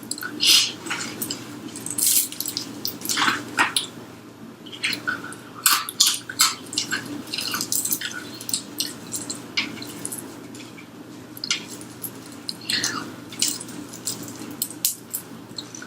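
Close-up eating sounds: wet chewing and lip-smacking, many short clicky smacks at an uneven pace, over a steady low room hum.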